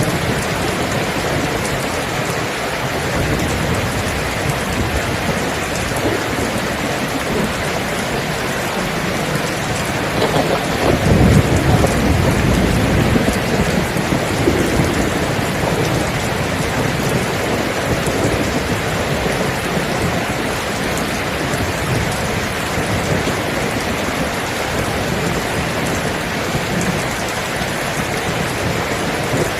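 Steady heavy rain falling, with a roll of thunder that swells about ten seconds in and rumbles away over several seconds.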